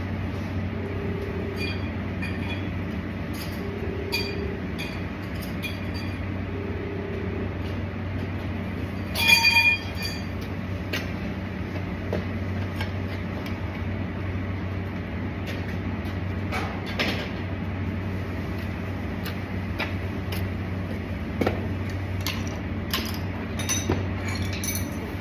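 Steady machine hum with scattered metallic clinks and taps, and one loud ringing clang of metal about nine seconds in.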